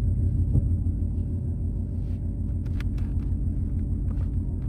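Ford Mustang GT's 5.0-litre V8 with a full aftermarket exhaust idling with a steady low rumble. A few light clicks about half a second in and near the three-second mark.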